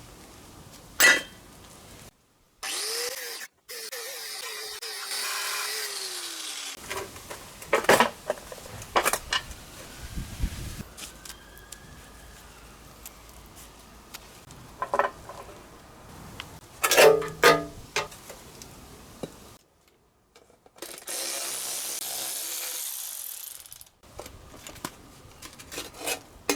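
Angle grinder cutting metal in two runs of several seconds, one early and one near the end, with sharp metal knocks and clanks from tools on the axle parts between them.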